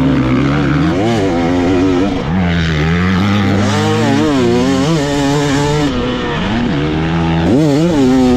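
Dirt bike engine revving hard, its pitch rising and falling again and again as the throttle is worked, with a sharp climb near the end.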